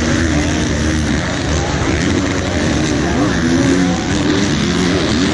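Several motocross bikes racing around the track at once, their engines revving up and falling off again and again, the pitches overlapping.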